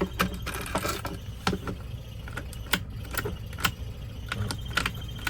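Irregular sharp metal clicks and rattles of a cut key being worked in a Ford 5-pin ignition lock cylinder, over a steady low hum.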